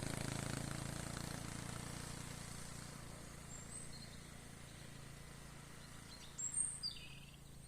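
Faint outdoor ambience with a low steady hum, fading out, and a few short bird chirps, the loudest a quick falling chirp near the end.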